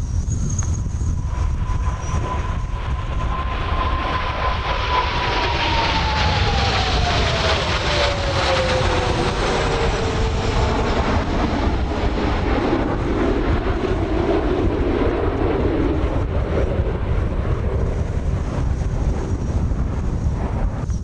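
Kawasaki T-4 jet passing overhead, its turbofan whine falling in pitch as it goes by, over steady low wind rumble on the microphone.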